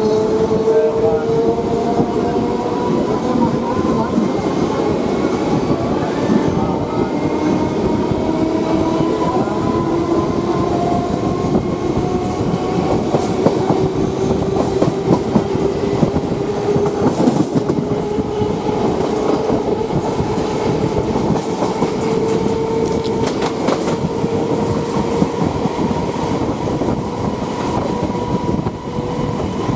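Electric multiple-unit local train running on the rails: a steady rumble of wheels on track with a whine that slowly rises in pitch, and scattered clicks from rail joints.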